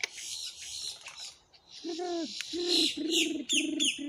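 Crows calling: a run of four or five short, low, cooing calls from about halfway through, with quick high downward-sliding chirps from another bird near the end.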